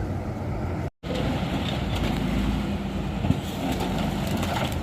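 Tatra truck-trial truck's diesel engine running steadily, with the sound cutting out for an instant about a second in.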